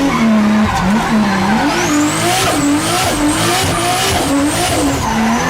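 Turbocharged car engine revving up and down in quick repeated swells, with a high turbo whistle that climbs about two seconds in and rises and falls with the throttle.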